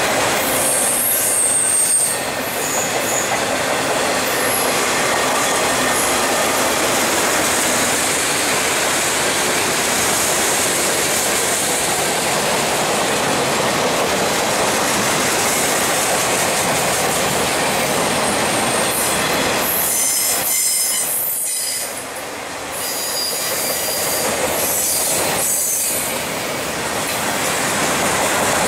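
Norfolk Southern freight train cars rolling past close by, with steady wheel noise, clickety-clack over rail joints and high-pitched wheel squeal.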